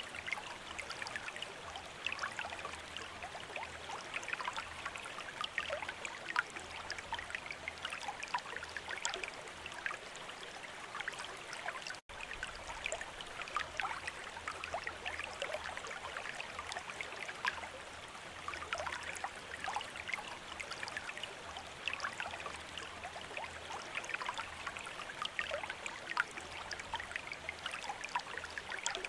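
Water trickling steadily from a bamboo fountain and splashing into its basin, a dense patter of small drips and splashes. The sound cuts out for an instant about twelve seconds in.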